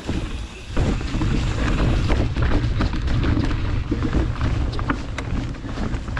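Wind buffeting the microphone while a mountain bike rolls fast along a dirt trail, with tyre rumble and irregular clicks and rattles from the bike. It gets louder about a second in.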